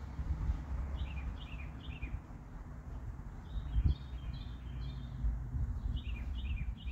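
A small bird chirping in quick runs of three or four short falling notes, repeated three times, over a low outdoor rumble. A dull knock sounds once about four seconds in.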